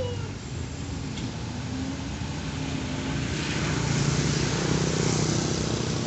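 A motor vehicle's engine running with road noise, growing louder from about halfway through.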